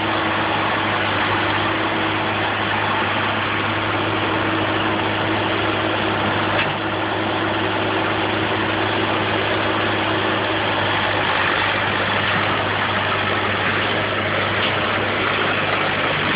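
Oliver OC-46 crawler tractor's engine running steadily at an even speed, with a dense mechanical clatter over it.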